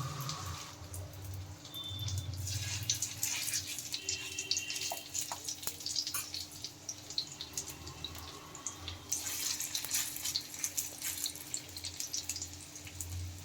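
Spiced minced-chicken tikka frying in hot ghee in a pan: a steady sizzle with irregular crackles and spattering pops over a low steady hum.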